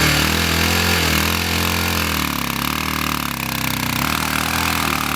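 Motorcycle engine idling, its revs sagging and picking up again a few times.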